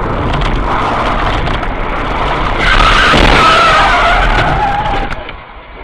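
Car tyres squealing in a skid, with a wavering high screech loudest from about two and a half seconds in, then dropping away suddenly near the end.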